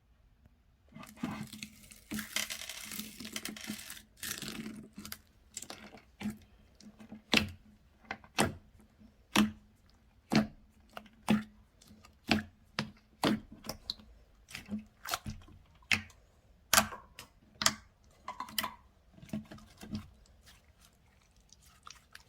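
Slime being worked by hand: a stretch of crackling at first, then crisp clicking pops about once a second as it is pressed and released.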